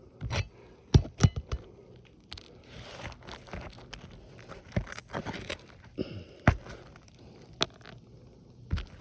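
Asphalt shingle roof repair work: irregular sharp knocks and clicks, with stretches of scraping and crinkling as shingles are handled.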